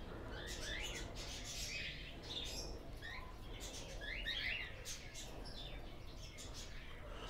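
Small birds chirping faintly: scattered short, high chirps, with a cluster of them about four seconds in.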